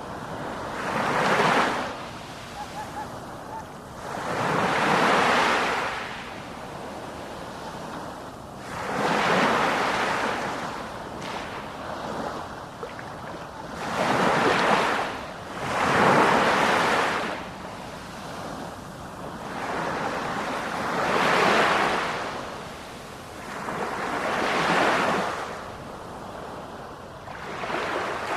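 Sea waves breaking, about eight in a row: each a swell of rushing surf that rises and fades over a couple of seconds, one every three to four seconds.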